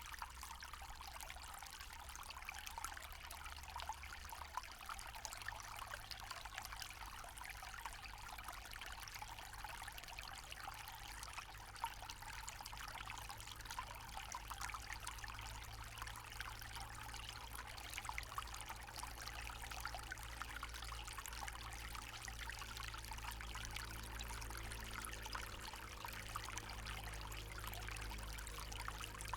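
Forest stream flowing and trickling steadily over stones, with a faint low rumble beneath.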